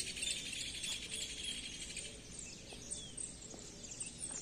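Faint bird chirps over a quiet outdoor background hiss.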